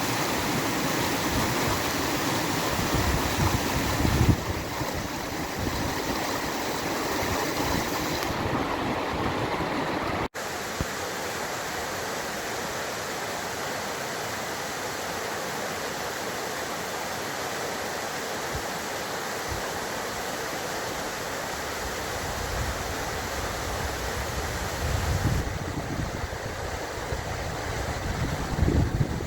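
Steady rush of a running stream. The sound cuts out for an instant about ten seconds in, then goes on a little quieter. Near the end, low gusts of wind buffet the microphone.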